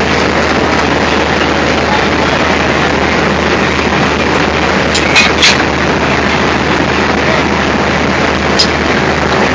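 ALCO diesel locomotive engine running steadily, a loud continuous rumble with a low hum. A few sharp metallic clinks sound about five seconds in and again near the end.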